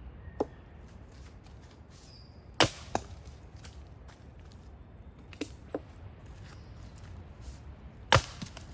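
Firewood being chopped: separate sharp wooden strikes, two loud ones about two and a half seconds in and near the end, with lighter knocks between.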